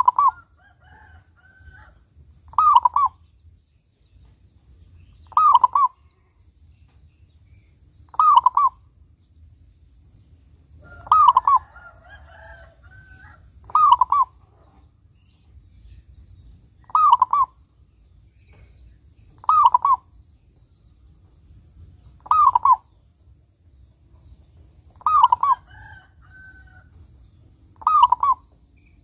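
Zebra dove (local perkutut) cooing: a short, clipped two-part call repeated steadily about every three seconds, some ten times. A few fainter chirps fall between the calls.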